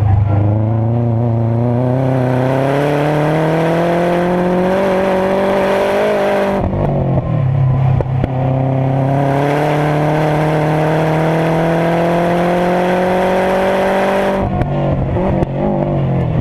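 2011 Subaru WRX's turbocharged flat-four engine accelerating hard, its revs rising steadily. About six and a half seconds in the pitch drops suddenly for an upshift, then climbs again through the next gear. About two seconds before the end the revs fall away as the throttle is lifted.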